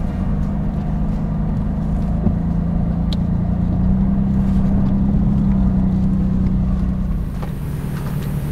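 Off-road SUV engine running steadily while driving a dirt trail, its pitch and level rising a little in the middle and easing off near the end.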